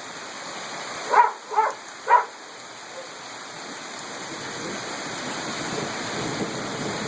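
Heavy rain pouring down, a steady hiss that slowly grows louder. Three short, sharp sounds come between about one and two seconds in.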